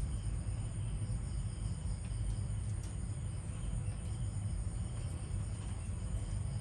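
Steady low rumble under a continuous high insect drone, with a few faint ticks.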